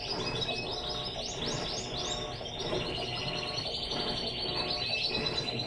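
Small songbird singing continuously, a rapid run of high chirps and warbling trills over a steady low background rumble.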